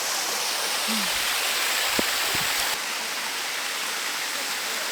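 Waterfall rushing in a steady, dense hiss, with two short knocks about two seconds in.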